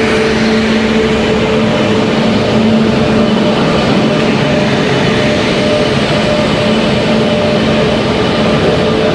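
Passenger train at a station platform: a steady rumble with a steady low hum.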